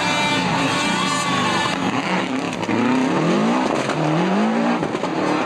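Rally car engine at full throttle, its note sliding down as it passes, then climbing hard twice with a gear change between.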